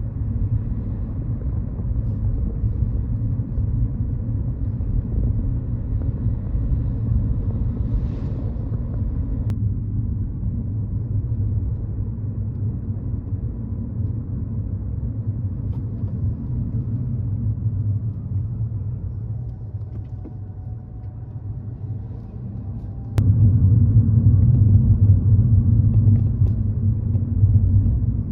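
Steady low outdoor rumble. It drops abruptly about nine seconds in and jumps louder suddenly about twenty-three seconds in.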